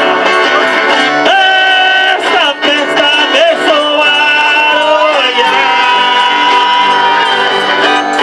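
Folia de Reis folk music: voices singing long held notes over plucked strings.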